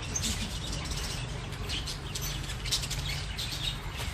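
Lovebirds chattering in an aviary: many short, high chirps overlapping at irregular intervals.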